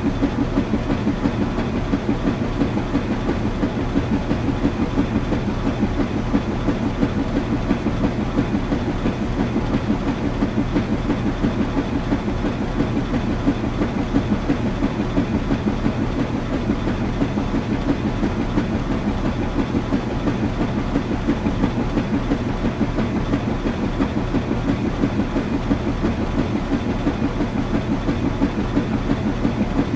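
Washing machine running with a steady, fast, even rhythm.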